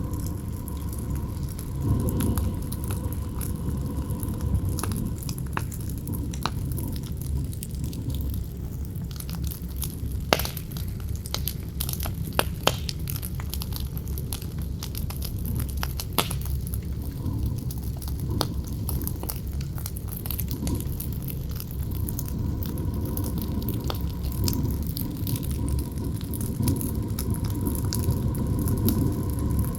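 Campfire crackling, with sharp pops scattered irregularly over a steady low wind rumble.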